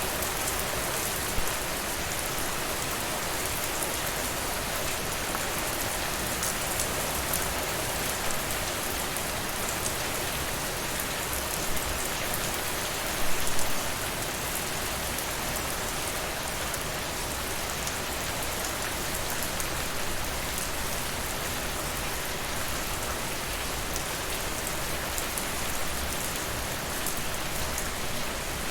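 Steady rain falling, mixed with the crackle of a wood fire in a fireplace. A few sharp pops stand out over the even hiss, the loudest about thirteen seconds in.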